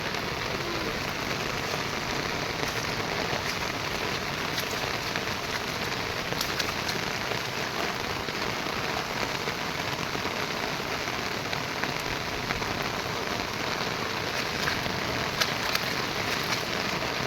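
Steady monsoon rain falling, an even hiss with scattered sharper drop ticks, more of them near the end.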